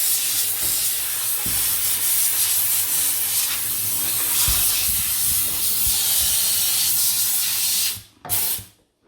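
Kärcher SC2 steam cleaner jetting steam in a loud, steady hiss, with a few dull knocks underneath. The hiss cuts off about eight seconds in, followed by one short last burst.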